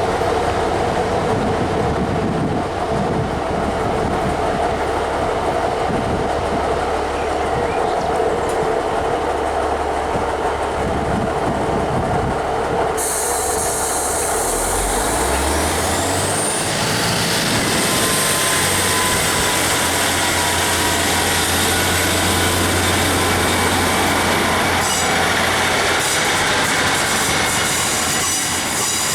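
Diesel multiple-unit passenger train running at the station. About halfway through, its engine note rises and settles higher as it pulls away, and a steady high whine joins in.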